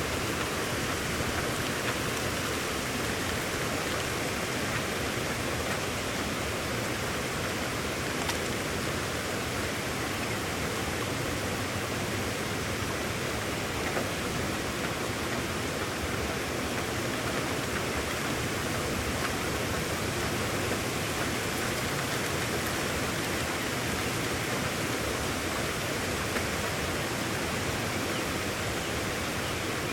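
Steady, unbroken rush of heavy rain.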